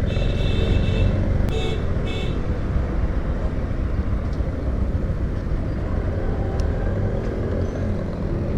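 Motorcycle riding through town traffic, a steady engine and road rumble. A vehicle horn sounds three times in the first couple of seconds: one longer honk, then two short ones.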